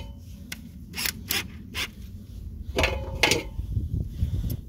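Scattered sharp clicks and light metallic clinks, about eight in all, two of them ringing briefly about three seconds in: hand tools being handled against sheet-metal underbody panels while they are made ready for riveting.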